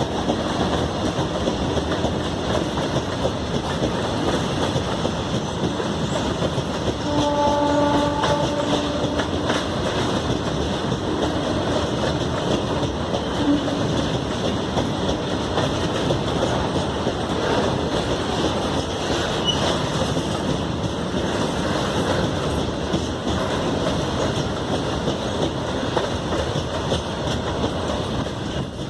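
Indian Railways train running past with steady wheel-on-rail noise. About seven seconds in, a locomotive horn sounds one steady blast of about two and a half seconds, and a short second toot follows about four seconds later.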